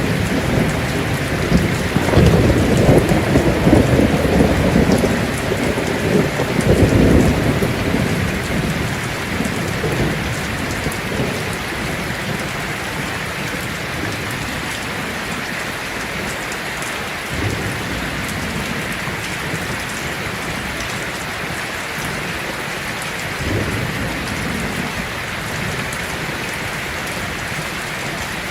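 Heavy rain falling steadily on a tin roof. A long rumble of thunder swells in the first few seconds and dies away, and two fainter, shorter rumbles follow later.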